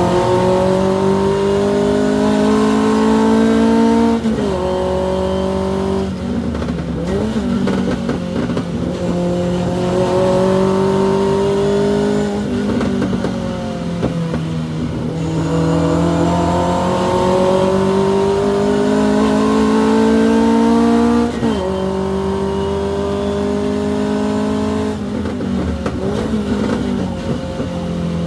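Hillman Avenger race car's four-cylinder engine heard from inside the car. Its pitch climbs under full throttle and drops sharply at each gearshift. It falls back to a rougher, quieter note several times as the car lifts off for corners.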